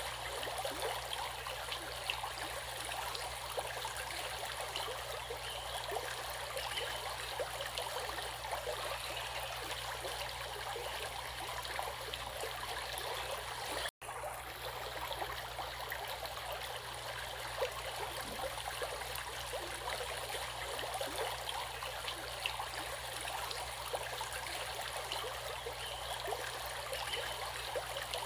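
Flowing stream water, a steady babble of many small splashes. The sound cuts out for a split second about halfway through, then carries on as before.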